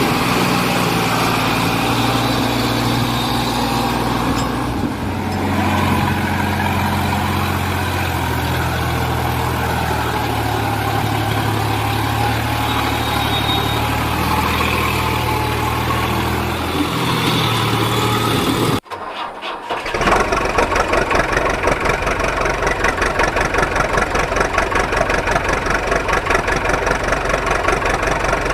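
A vehicle engine running with steady low tones that shift in pitch every few seconds. It cuts off abruptly, then an engine idles with a fast, even chugging.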